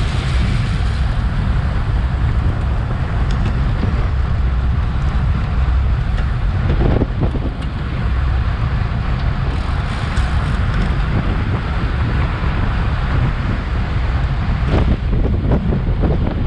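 Steady wind buffeting on a bike-mounted action camera's microphone while riding a road bike at race speed, over a low rumble from tyres and road, with a couple of brief knocks.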